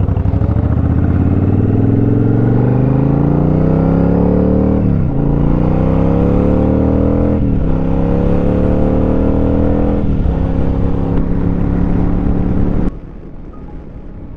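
Motorcycle engine under hard acceleration, its pitch climbing steadily through the revs and dropping sharply at three upshifts, about five, seven and a half and ten seconds in. The engine sound drops away suddenly near the end.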